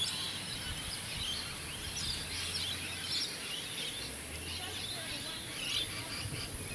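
Several birds chirping and calling over a steady high hiss of outdoor background noise.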